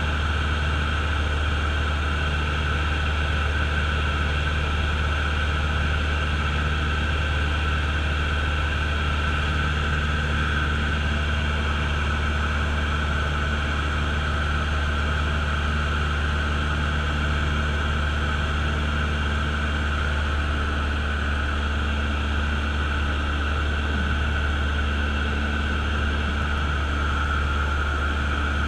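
A Cessna light aircraft's piston engine and propeller droning steadily at a constant power setting, a deep, even hum with no change in pitch.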